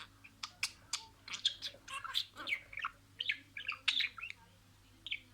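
Budgerigar chirping and warbling: a quick run of short chirps and squawks that stops about four and a half seconds in, with one last chirp near the end.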